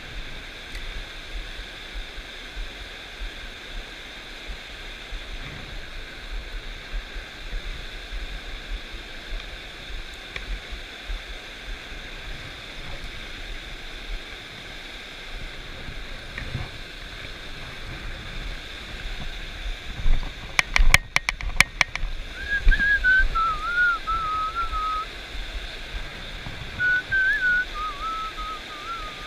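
Stream water rushing steadily, with low thumps of handling or wind on the microphone. About two-thirds of the way through comes a quick run of sharp clicks, and then a person starts whistling a wavering tune.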